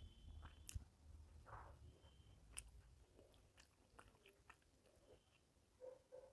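Faint chewing of a person eating rice and fish curry, with scattered soft mouth clicks.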